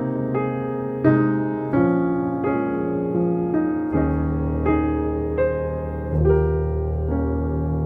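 Slow, gentle piano music: held chords with a melody over them, and deep bass notes coming in about halfway through.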